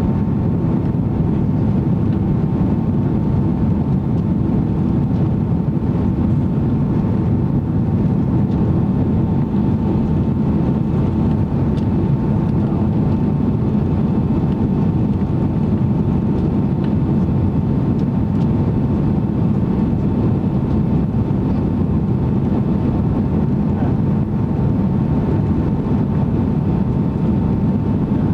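Boeing 767-300ER cabin noise in flight: a steady, loud roar of the jet engines and airflow, with a thin steady whine near 1 kHz running underneath.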